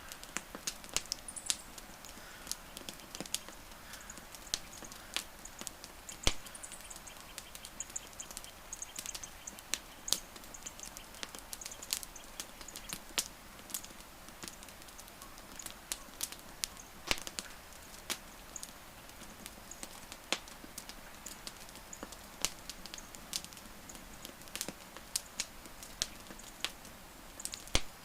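Wood campfire burning: irregular sharp crackles and pops, a few much louder than the rest, over a soft steady hiss.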